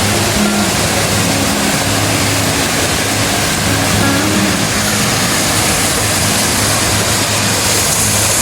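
Steady, loud rush of a mountain waterfall's falling water, with faint background music notes underneath.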